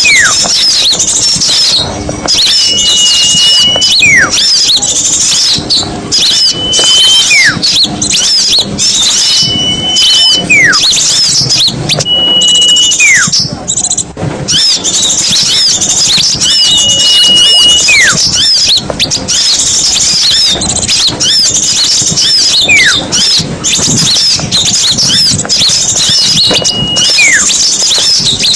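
Bird-lure recording of small songbirds: a loud, dense chatter of many small birds twittering at once. Over it, a whistle repeats about eight times at uneven intervals: a short held high note, then a note that falls steeply in pitch.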